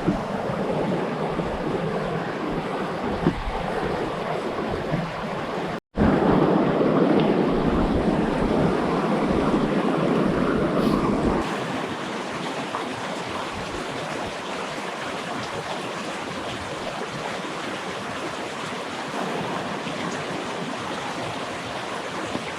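Rushing river water, a steady noisy rush. It breaks off for an instant about six seconds in, comes back louder for a few seconds, then settles to a softer rush.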